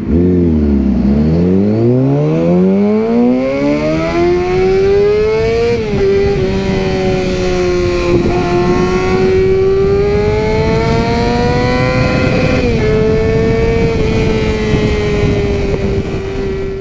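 Motorcycle engine pulling away from low revs, the revs climbing steadily for about six seconds before an upshift. It then holds a fairly steady pitch at cruising speed, with another upshift near the end.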